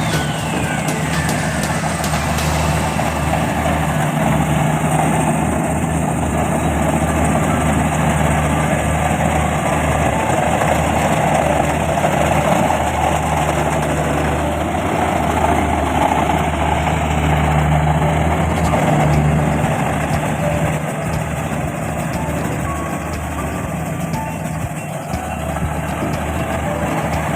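Rice combine harvester running with a steady engine drone and a mechanical rush that holds even throughout.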